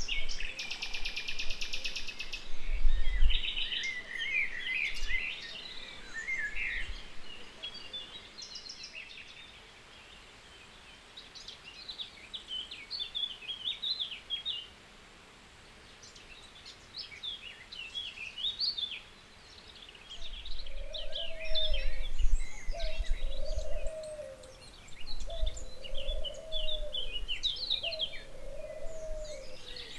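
Several wild songbirds chirping and singing, with a fast buzzy trill right at the start. About two-thirds of the way in, a lower call repeats four times.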